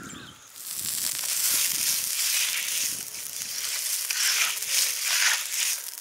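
Egg and goat-brain omelette frying in a pan: a steady, fluctuating hiss of sizzling oil that swells in about half a second in.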